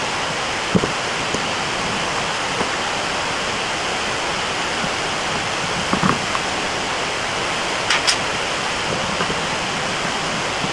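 Steady rushing noise in the background, with a few light knocks and clinks of tools and metal parts being handled about a second in, around six seconds and around eight seconds.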